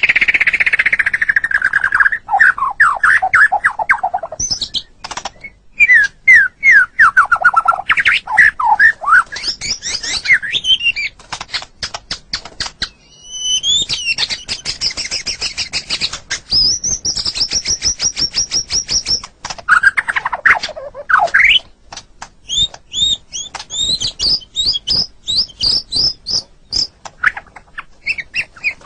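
White-rumped shama (murai batu) singing a long, varied song: quick trills of falling notes, fast runs of sharp clicking notes, and phrases of high repeated whistles, with brief pauses between phrases.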